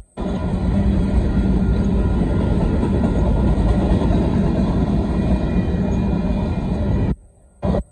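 Union Pacific covered hopper cars of a grain train rolling past close by, a loud, steady rumble of steel wheels on the rails. The sound cuts out abruptly about seven seconds in, coming back for a moment just before the end.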